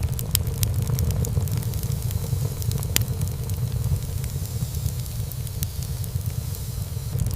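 Wood fire burning in a fireplace: a low, steady rumble of flames with irregular crackles and pops from the burning wood, one sharper pop about three seconds in.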